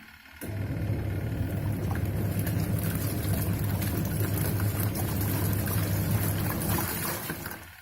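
Akai twin-tub washing machine in its wash cycle: the motor hums as the pulsator churns clothes in soapy water. It starts about half a second in and stops shortly before the end, the run-and-pause of the agitator's alternating wash action.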